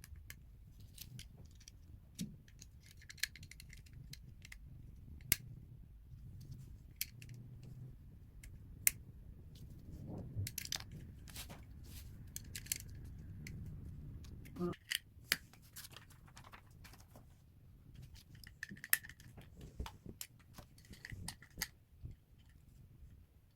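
LEGO bricks and small plastic pieces clicking and clattering as they are handled and pressed together: scattered, irregular sharp clicks over a faint low hum that stops about two thirds of the way through.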